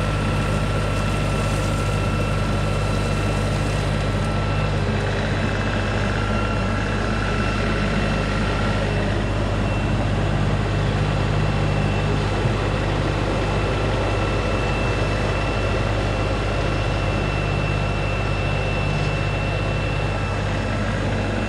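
An LS MT3 compact tractor's diesel engine running steadily while working, with a thin steady high whine over it.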